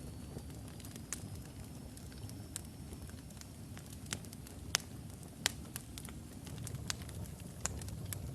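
Wood logs burning in a fireplace: a steady low rush of flame with irregular sharp crackles and pops, two louder pops near the middle.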